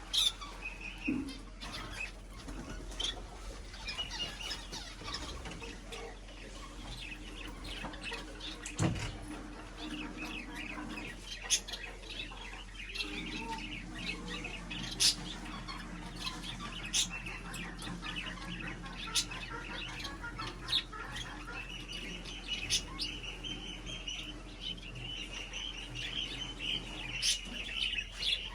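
Small birds chirping continuously, with many short, sharp chirps or clicks, over a low steady hum through much of it.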